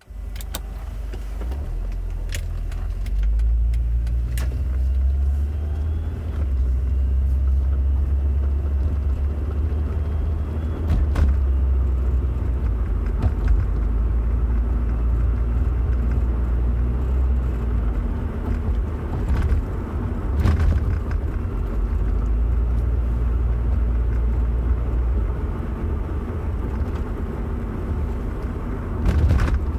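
Road vehicle running with a steady low rumble, broken by occasional sharp knocks or clicks every few seconds.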